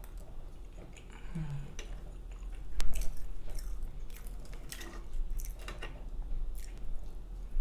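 A person chewing food with smacking mouth sounds, in irregular short bursts. There is a single sharp click about three seconds in.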